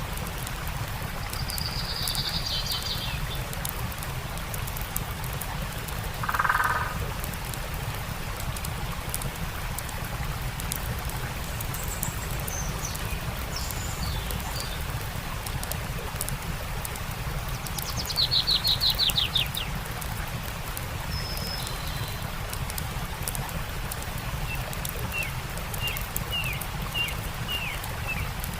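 Steady rush of a stream with scattered small crackles of a campfire, and songbirds calling over it. Short trills come early on and a lower call about six seconds in. A loud rapid trill comes about two-thirds of the way through, and a run of quick chirps near the end.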